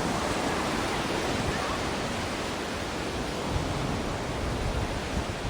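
Ocean surf: a steady, even wash of breaking waves, with a low rumble swelling in the second half.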